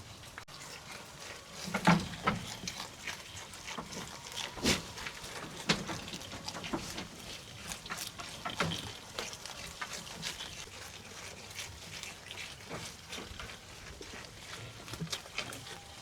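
Goats feeding on leafy fodder: irregular rustling, snapping and crackling of leaves and stems, loudest about two seconds in.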